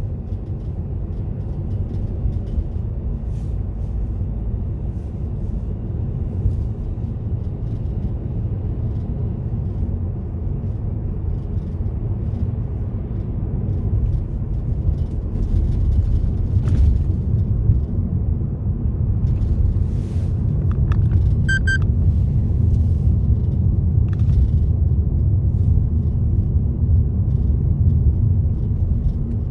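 Car driving on a road: a steady low rumble of engine and tyre noise that grows a little louder about halfway through, with a few faint clicks and a short run of quick high beeps about two-thirds of the way in.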